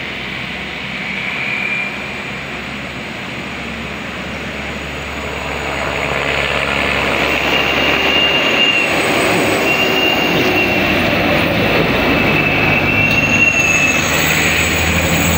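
A heavy road vehicle running close by, its engine hum under a broad road noise, with a thin high squeal on and off above it. It grows louder from about six seconds in.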